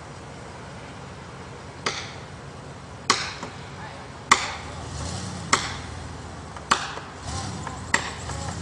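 An axe chopping into wood with six sharp, evenly spaced strikes, about one every 1.2 seconds. From about halfway through, a low engine hum rising and falling in pitch runs underneath.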